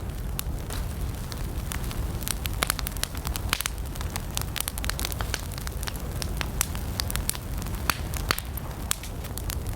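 Campfire of burning wood crackling: frequent irregular sharp pops and snaps over a steady low rush.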